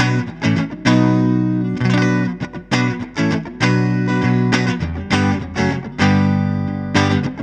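Electric guitar, a Fender Stratocaster, played through a Line 6 Helix amp and cabinet model, striking a rhythmic chord riff in which some chords ring for about a second and others are cut short.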